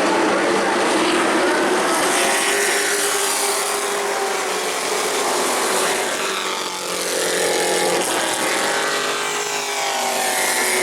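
Several race truck engines running at racing speed, their pitch rising and falling as they work through the turns, with a short dip in loudness about seven seconds in.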